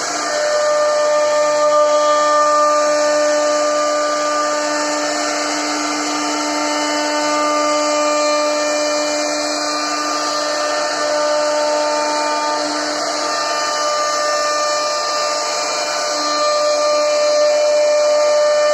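CNC router spindle running with a steady whine while its bit cuts into a wooden board.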